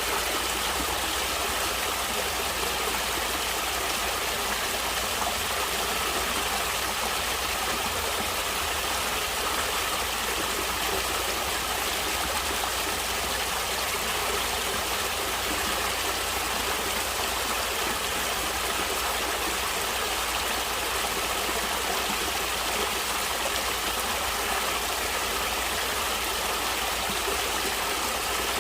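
Stream water flowing steadily over rocks, a continuous even rush with no breaks or changes.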